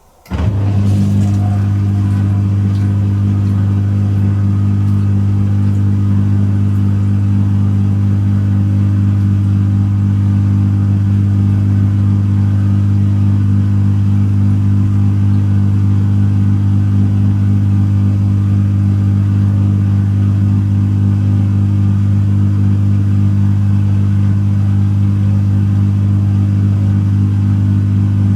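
Pro Action PRSLG96W slimline dishwasher's pump starting suddenly and running with a loud, steady mains hum.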